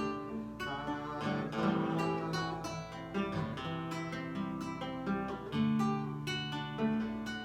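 Lyle nylon-string guitar played between sung lines, a quick run of plucked chords and single notes over low bass notes that ring on.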